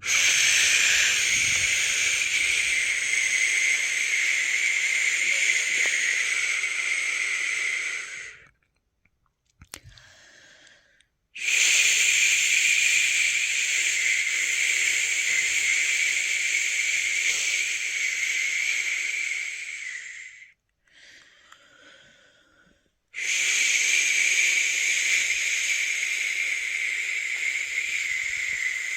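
A person shushing a newborn to sleep: three long, steady 'shh' sounds of about eight or nine seconds each, broken by short pauses with faint in-breaths.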